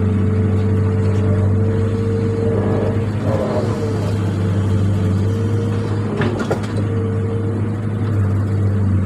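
A motor running steadily with a constant low hum, and a couple of sharp clicks about six seconds in.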